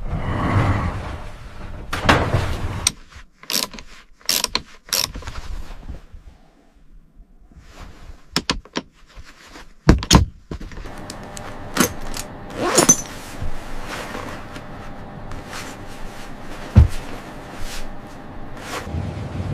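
Irregular series of sharp knocks, clicks and clatter, typical of building work with tools and materials. A faint steady hum sets in about halfway through.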